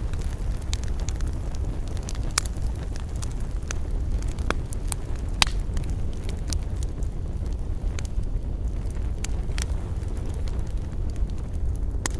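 Outdoor wood campfire burning, with scattered sharp crackles and pops from the burning wood over a steady low rumble; one louder pop about five seconds in.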